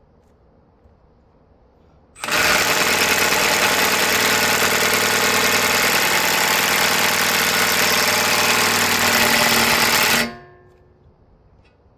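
Impact wrench hammering steadily on a tight hub fastener for about eight seconds, starting about two seconds in and stopping abruptly.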